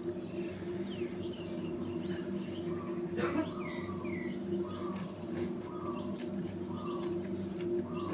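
Small birds chirping repeatedly over a steady low hum, with a few sharp clicks.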